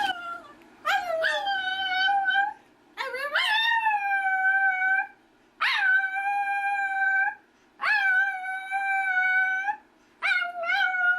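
Chihuahua howling: two short yelps, then a run of long howls, each rising at the start and then held on one high pitch for about two seconds, with short breaks between them.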